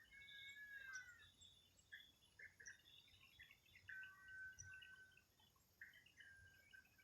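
Several birds chirping and calling faintly, with a falling warbled call at the start and a long even whistle about four seconds in.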